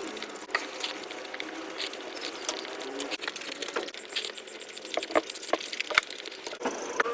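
Mukbang eating sounds played back at about five times speed: a rapid, irregular run of wet chewing, smacking and sharp clicks as someone eats luchi with curry.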